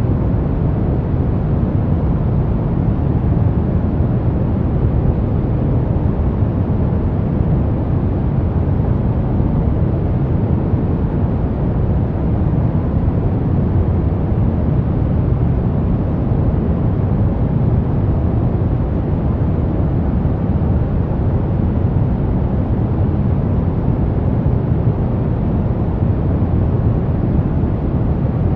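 Steady brown noise: an even, deep hiss, strongest in the bass and fading toward the treble.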